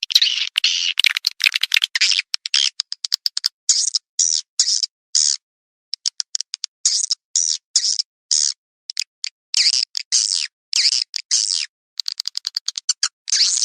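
Recorded swiftlet calls, the twittering lure track that swiftlet farmers play to draw the birds into a nesting house. Rapid clicking chirps give way to a run of short, high, buzzy chirps broken by brief silences, with a pause of about half a second a little before the middle.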